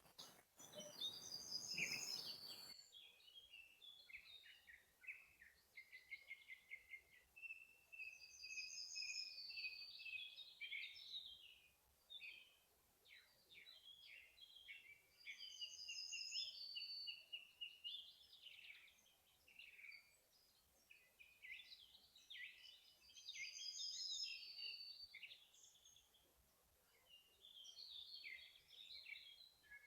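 Several forest songbirds singing at once, with overlapping trilled and chirping phrases that repeat every few seconds. A short stretch of hiss sits under the song near the start.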